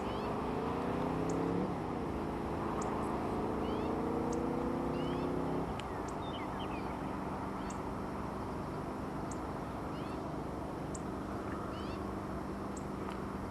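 Small birds giving short high chirps about once a second, over a steady rushing noise and a low droning hum. The hum rises in pitch for the first two seconds, holds, then drops to a single lower steady tone about six seconds in.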